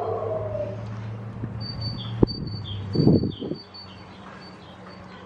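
A small bird singing a quick run of high chirps over a thin, steady high note, starting about a second and a half in. A sharp click comes just after two seconds, and a short, louder sound about three seconds in.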